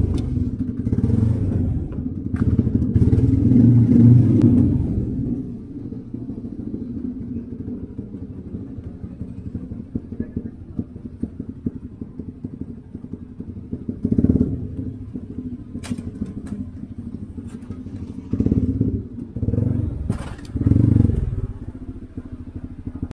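Motorcycle engine revving for the first few seconds, then running low and steady, with short bursts of revs about two-thirds of the way through and again near the end.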